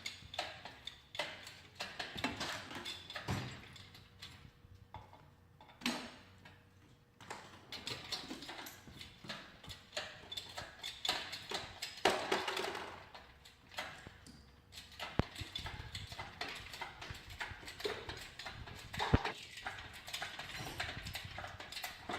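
Hands-on work on a car engine in a garage: irregular knocks, clanks and clicks of tools and metal parts, with a couple of sharper strikes in the second half.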